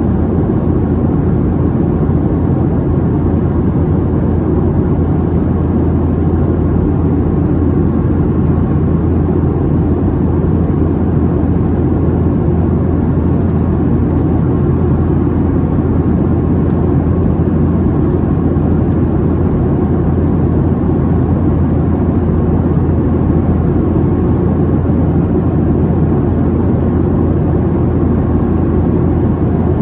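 Steady cabin noise inside a Boeing 737-700 in flight: its CFM56-7B turbofan engines and the airflow over the fuselage make a loud, even low rumble with a constant drone underneath.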